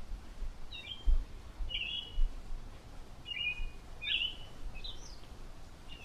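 A small bird calling: short high chirps, about six of them, roughly a second apart, each slurring quickly downward. Low dull thumps sound underneath.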